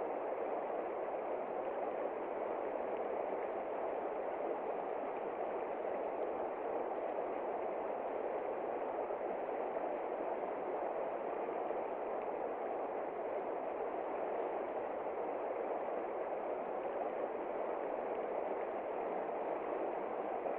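Heavy rain falling steadily on a window, even and unbroken, with no thunder.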